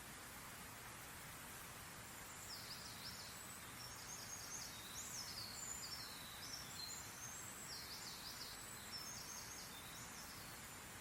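A songbird singing a long, fast run of high, quick notes, starting about two seconds in and stopping near the end, over a faint steady hiss.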